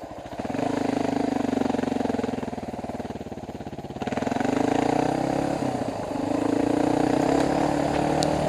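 Dual-sport motorcycle engine under way, heard from the rider's helmet: the throttle opens about half a second in, eases off, opens again about four seconds in, dips briefly and picks up again, so the engine note rises and falls with each change.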